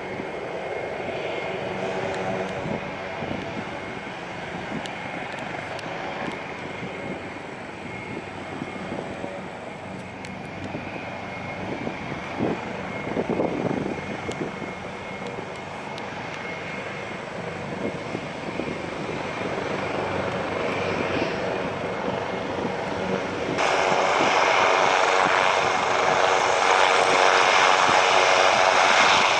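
Jet airliner engines running with a steady rush and faint whining tones. About 24 seconds in, the sound suddenly jumps to a much louder, brighter rush.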